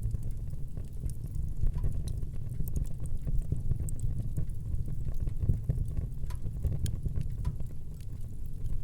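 Wood fire in a fireplace crackling: irregular sharp pops and snaps scattered over a steady low rumble of the burning fire.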